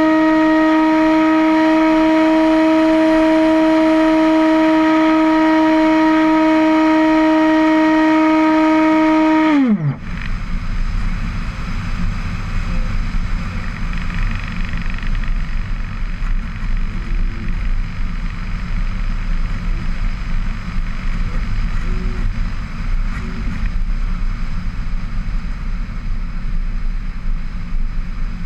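Steady high hum of a model aircraft's electric motors, which drops sharply in pitch and stops about ten seconds in, leaving the rumble of wind on the microphone.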